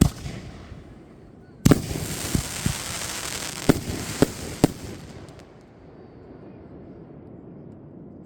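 Fireworks going off: a sharp bang right at the start, then a louder bang about a second and a half in, followed by a few seconds of crackling with several separate sharp pops, dying away about halfway through.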